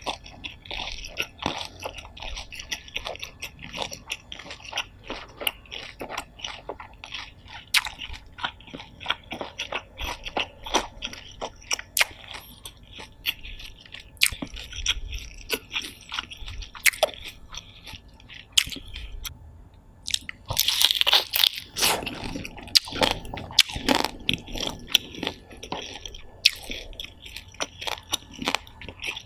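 Close-miked chewing of steamed shellfish, with many irregular wet clicks and crisp bites. It gets louder and busier for a couple of seconds about two-thirds of the way through.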